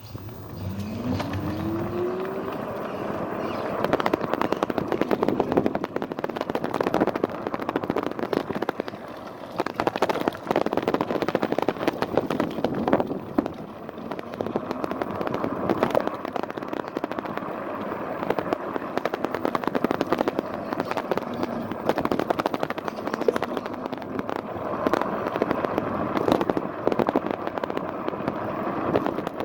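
Fat-tyre electric scooter ride heard from a handlebar-mounted phone: the motor whines up in pitch as it pulls away in the first couple of seconds, then dense crackling, rattling and knocking from the mount and phone shaking over every bump in the road, with wind noise.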